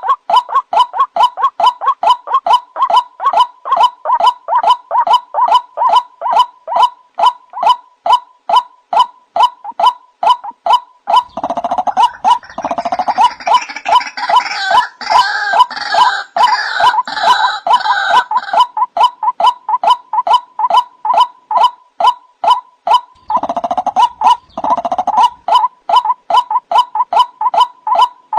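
White-breasted waterhen calls from a lure call recording: a rapid, even run of harsh repeated notes, about three or four a second. From about 11 to 19 seconds in, and again briefly near 24 seconds, a denser gurgling chorus of overlapping calls joins it.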